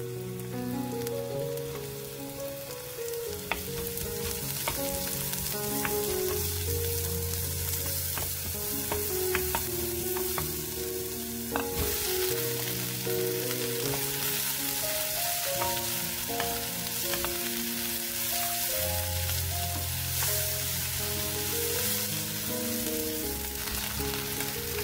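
Garlic, onion and eggplant strips sizzling as they stir-fry in oil in a nonstick wok, stirred with scattered clicks of the utensil against the pan. The sizzle gets louder and denser about halfway through, once the eggplant is in.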